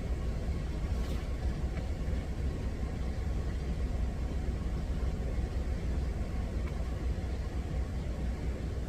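Steady low rumble of an idling truck engine, with a faint click about a second in.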